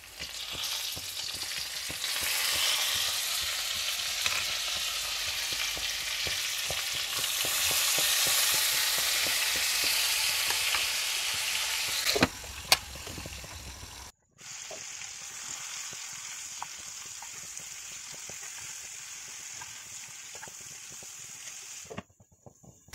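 Fresh fiddlehead fern fronds sizzling in hot oil in a frying pan of fried pork. About twelve seconds in, two sharp clinks sound as a glass lid goes on, and after that the frying goes on as a quieter, steady hiss.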